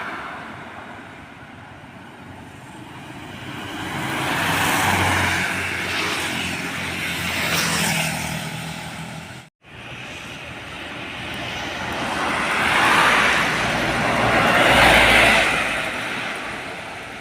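Heavy trucks passing by on a road, each engine and its tyre noise growing louder as it approaches and fading as it goes; three passes, with a brief cut-out of the sound about halfway through.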